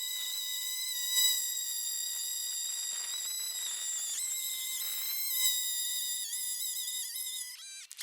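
A steady high-pitched whistling squeal, one held note with slight wavers, that breaks off near the end and briefly starts again.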